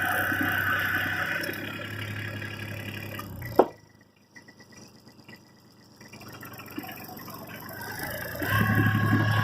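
Kubota diesel tractor engine running with a steady hum. It breaks off abruptly after a sharp click a little over a third of the way in, stays faint for a couple of seconds, then builds back to a strong hum near the end.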